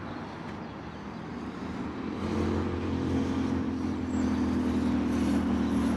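Motor vehicle engine running with a low, steady hum that grows louder over the first two seconds and then holds.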